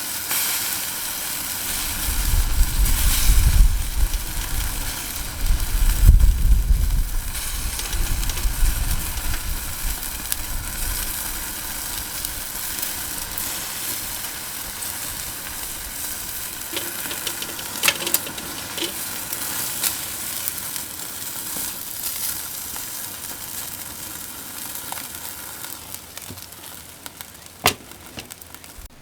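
Chicken-skin yakitori sizzling over charcoal, a steady hiss of rendering fat that slowly fades. Low rumbles come in the first few seconds, and sharp clicks come midway and near the end.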